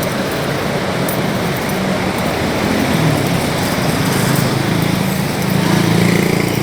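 Road traffic close by: vehicle engines running and tyres on the road, with a small engine droning louder in the second half.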